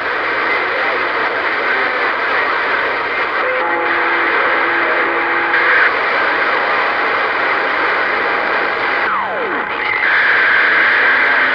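CB radio receiver hissing with static on an open channel, with faint steady whistles of carriers under the noise. One whistle slides quickly down in pitch about nine seconds in.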